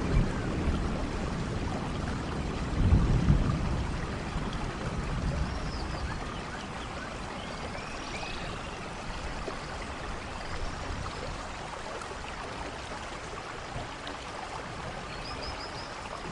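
Steady rain falling, with a low rumble of distant thunder swelling about three seconds in before the rain settles on its own.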